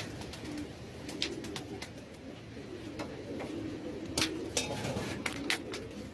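Domestic pigeons cooing, several low coos overlapping, with a handful of sharp clicks or taps, the loudest about four to five and a half seconds in.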